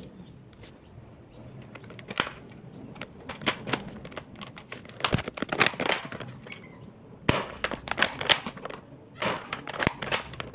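Handling of spring-powered airsoft guns: a run of sharp plastic clicks and snaps in irregular clusters, from reloading, cocking and firing.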